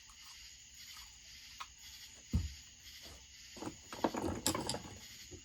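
Hand tools being handled on a workbench during a chainsaw teardown: one dull knock, then a run of light metallic clicks and clatters about four seconds in.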